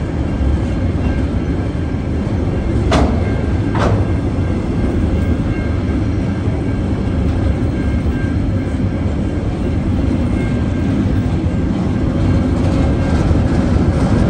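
TasRail freight train's hopper wagons rolling past slowly through a level crossing, a steady low rumble with wheel clatter. There are two sharp knocks about three and four seconds in.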